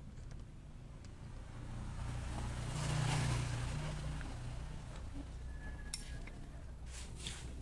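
A road vehicle passing by, its sound swelling to a peak about three seconds in and then fading, over a steady low hum; a few light clicks near the end.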